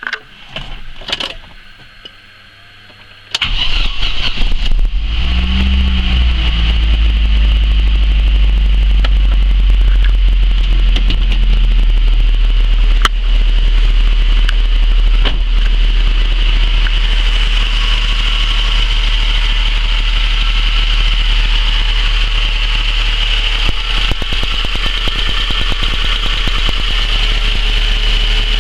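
ZMZ 406 inline-four petrol engine starting about three seconds in after a few faint clicks, then idling steadily. Through the idle there is a tapping from its newly fitted hydraulic lifters, which can knock for the first couple of minutes after installation until they fill and bleed; the valve timing is set correctly.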